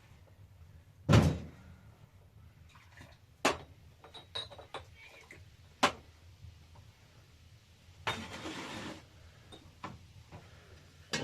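Household knocks: one heavy thump about a second in, then scattered sharp knocks and clicks, and about a second of rustling or scraping near the end.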